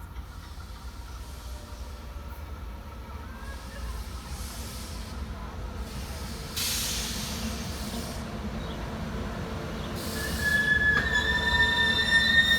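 A train approaching along the track, its low rumble building, with a brief hiss about seven seconds in. About eleven seconds in, its steel wheels start a loud, steady high-pitched squeal against the rails.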